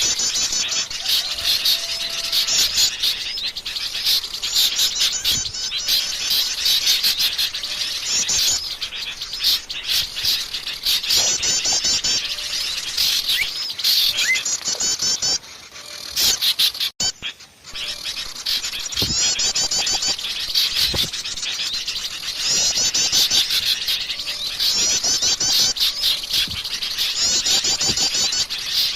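A dense chorus of many small songbirds chirping and trilling over one another: a bird-lure recording of noisy small birds. It breaks off briefly a little past halfway, then picks up again.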